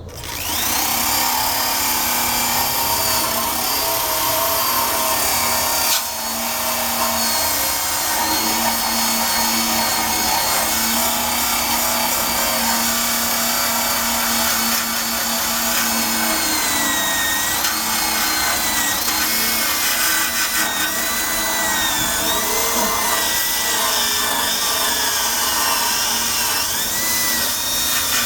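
Electric drill spinning a wire brush against the steel undercarriage of a 1965 Honda Cub, scrubbing off rust and paint. The motor whines without a break, with a brief dip about six seconds in, and from about halfway on its pitch wavers and sags as the brush is pressed into the metal.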